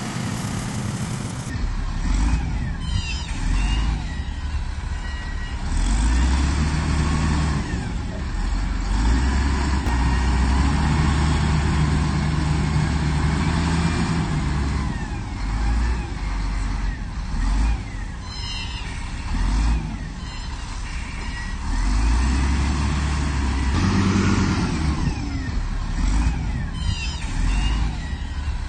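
Diesel engine of heavy earthmoving machinery running under load, its pitch and loudness rising and falling every few seconds as it works. There are brief high squeaks a few times.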